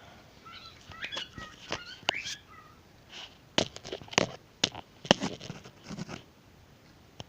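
A pet bird chirping softly, mixed with a run of sharp clicks and taps that are loudest in the middle of the stretch.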